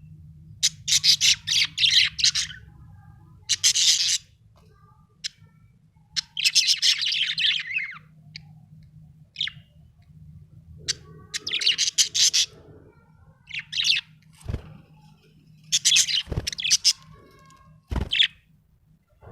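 Budgerigar chirping in repeated bursts of rapid high chirps, each burst lasting one to two seconds, with short pauses between. A few soft low knocks come in the second half.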